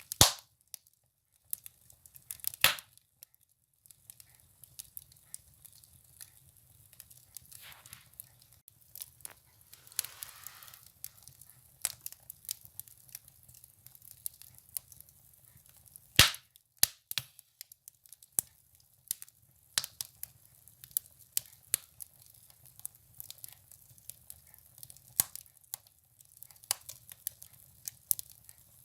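Firewood burning in a stove, crackling with irregular sharp pops, a few of them loud, and brief soft hissing a couple of times.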